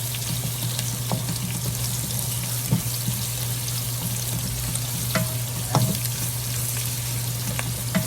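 Onions and garlic sizzling in hot oil with pork belly in a pan as they are sautéed and stirred, with a few sharp clicks of a utensil against the pan. A low steady hum runs underneath.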